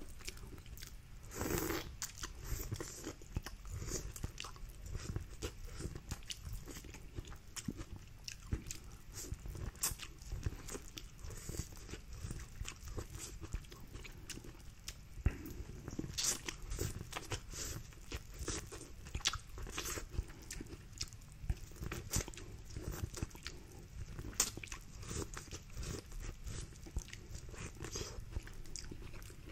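Close-miked eating: repeated biting and chewing of boiled corn on the cob, with many small irregular crunches and clicks.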